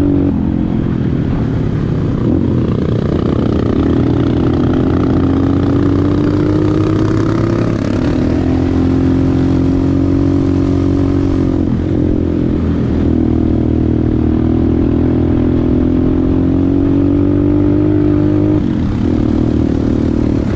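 Motorcycle engine running under way, its pitch climbing slowly and then dropping at gear changes several times.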